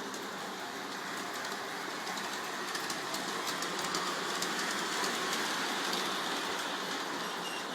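G-scale model train with a Percy locomotive running along its track: a steady rolling, whirring sound with light wheel clicks at the rail joints. It grows a little louder toward the middle, as the train passes nearer.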